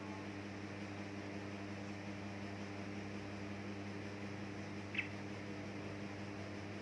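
Steady low electrical hum over hiss, with one short high chirp about five seconds in.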